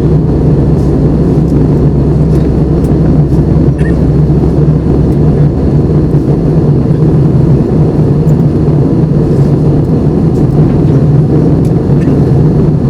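Steady cabin noise of an Airbus A320 in flight: an even, loud rush of airflow with a low engine hum underneath.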